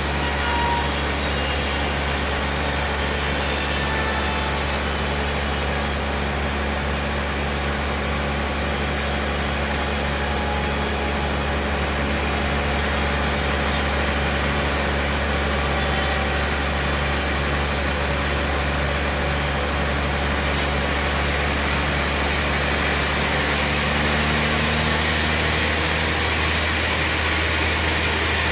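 Bandsaw sawmill machinery running steadily, with a strong low drone that holds without a break.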